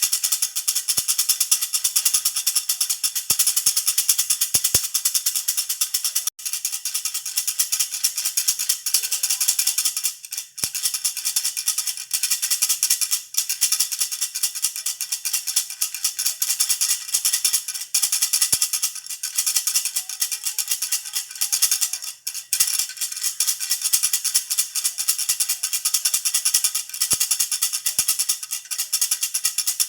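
Jhunjhuna baby rattle shaken fast and continuously, giving a dense, hissy jingling rattle. It breaks off for a moment a few times.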